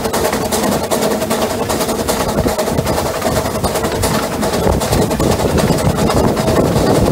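Narrow-gauge train running along the line, heard loud and steady from a locomotive's open cab: engine noise with the clatter of wheels on the track.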